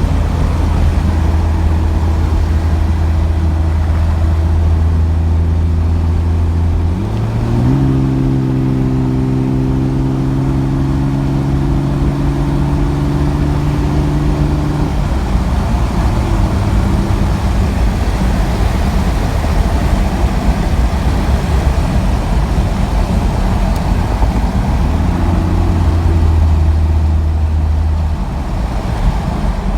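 Cummins 5.9-litre 24-valve inline-six turbo diesel in a 1998 Dodge Ram 2500 running through an 8-inch dump exhaust while driving, a steady low drone. Its pitch steps up about a quarter of the way in and holds for several seconds, then fades under wind rush before the drone returns near the end.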